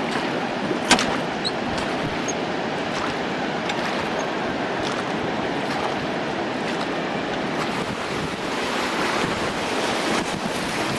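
Steady rush of whitewater from a river rapid, with wind buffeting the microphone and a single sharp knock about a second in.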